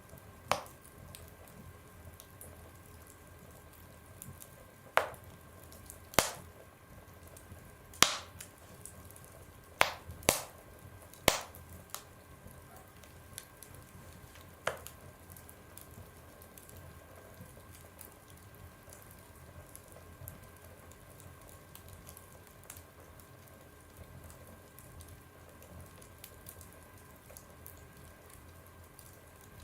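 Wood fire burning in a stove, the logs giving sharp cracking pops, about eight of them in the first 15 seconds, over a soft steady crackle that thins to faint small ticks for the rest.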